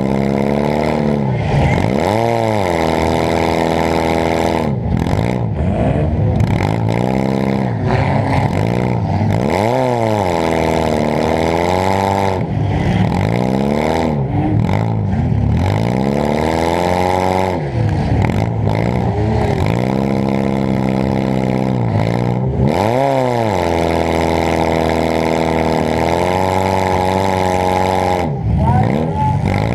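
Demolition derby car's engine heard from on board, revving up and falling back again and again, about a dozen surges in half a minute.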